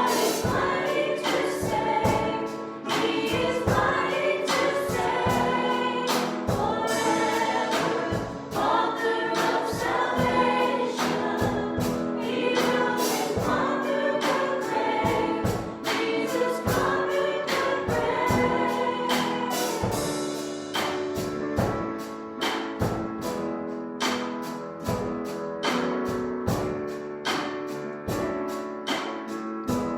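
Church worship music: a group of voices singing a gospel song over a band, with drums keeping a steady beat. The singing thins out about two-thirds of the way through, leaving the band playing on.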